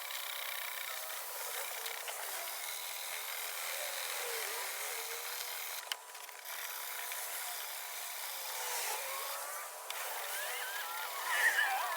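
Sanding of body filler (Bondo) around a car door opening, played sped up: a steady scratchy hiss that breaks off briefly about halfway through.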